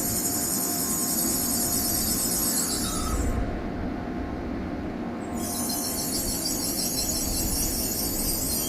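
Sanyo Shinkansen train moving through Himeji station: a steady rumble and rush of train noise, with a high shrill layer that cuts out for about two seconds midway and then returns.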